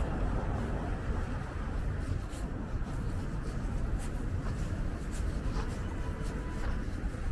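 City street background noise: a steady low rumble of traffic, with a few faint clicks.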